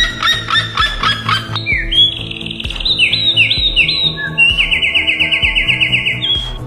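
Bird calls: a run of short, sharp repeated calls, then from about a second and a half in a series of rising whistled notes, then a rapid even trill. Background music with a steady beat plays underneath.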